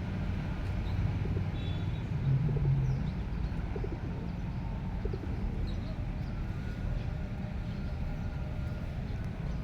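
Pigeons cooing over a steady low rumble.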